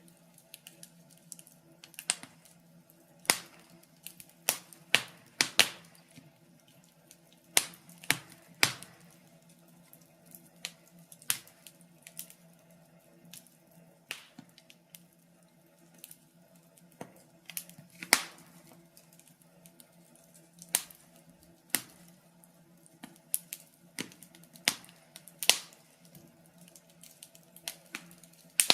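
Wood fire in a fireplace crackling, with irregular sharp pops over a faint steady hum.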